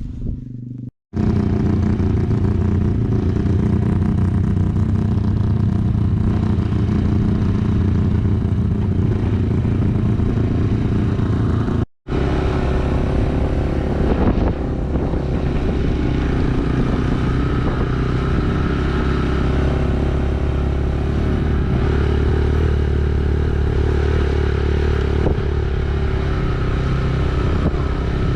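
Motorcycle engine running steadily while riding, with road and wind noise, cut off briefly twice.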